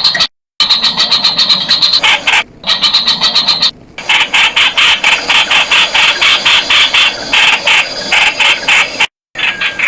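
Streak-eared bulbuls calling: loud, harsh, chattering notes repeated rapidly, about four a second. A few short, sudden gaps of silence break the run where the recording is spliced.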